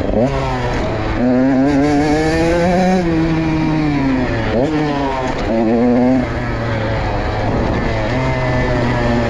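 Motorcycle engine on a racetrack, revving up and dropping back several times with sudden pitch jumps at the gear changes. Gears are shifted without the clutch.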